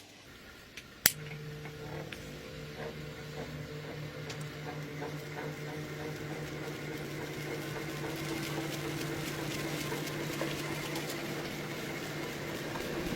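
A sharp click about a second in, then a small motor starts and runs with a steady hum that slowly grows louder.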